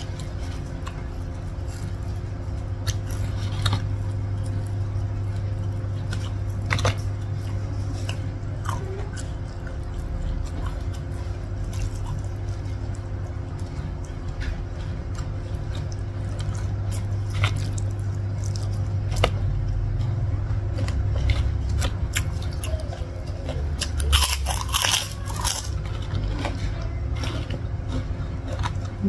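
Close-up mukbang eating sounds: a person chewing and biting food, with scattered crisp crunches and a busier patch of crunching near the end. A steady low hum runs underneath.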